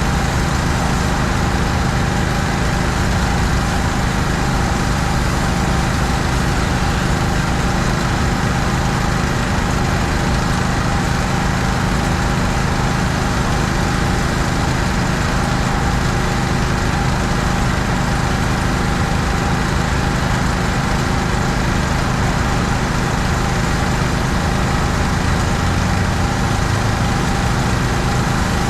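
An engine running steadily at constant speed, with a steady hum and no change in pitch or level.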